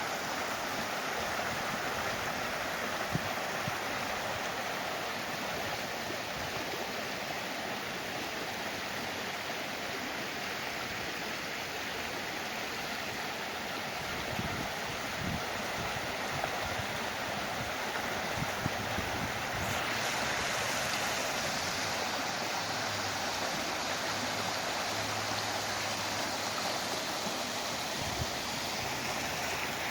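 Steady rushing of flowing river or stream water. About twenty seconds in the sound turns brighter and hissier.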